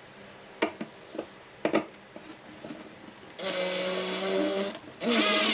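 A few light knocks, then a small electric motor whirring for about a second, followed by a second, louder whir that shifts in pitch near the end.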